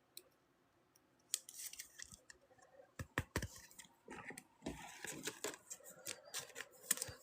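Trading card packs being opened and cards handled: faint crinkling of foil wrappers and card stock, with scattered sharp clicks.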